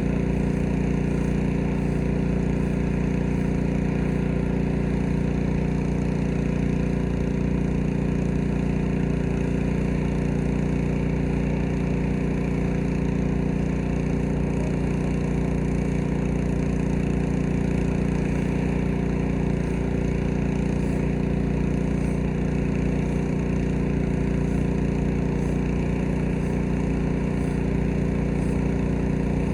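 Gas-engine pressure washer running steadily at a constant pitch, with the hiss of the spray over the engine.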